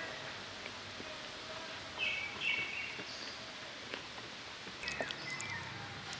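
Small birds chirping in two short bursts, about two seconds in and again near five seconds, over a steady outdoor hiss.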